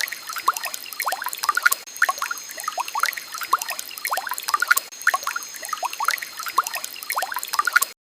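Flowing water trickling and pouring, full of quick bubbly plinks that rise in pitch. There is a brief cut-out near the end.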